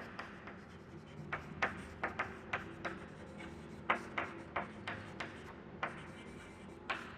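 A pen writing: irregular short taps and scratchy strokes, a few each second, as equations are written out.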